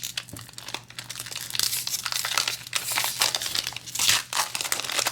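Foil trading-card booster pack wrapper crinkling and rustling as it is handled, in irregular bursts, the loudest about four seconds in.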